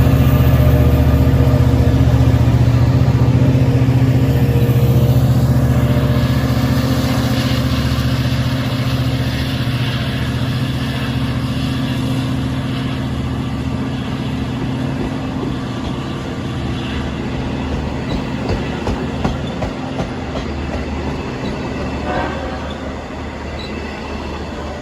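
Long Island Rail Road diesel train running with a steady low engine hum that slowly fades as it moves away, with light clicks from the wheels on the rails in the second half.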